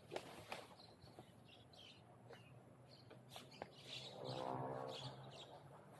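Small birds chirping faintly on and off, with a few light clicks. Past the middle, a pitched drone swells and fades over about a second and a half.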